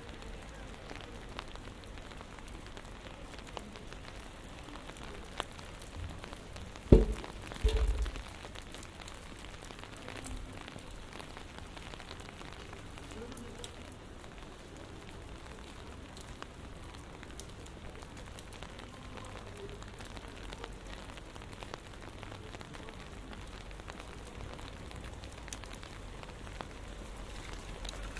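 Steady rain, with many small drop ticks close to the microphone. About seven seconds in come two heavy low thumps, less than a second apart.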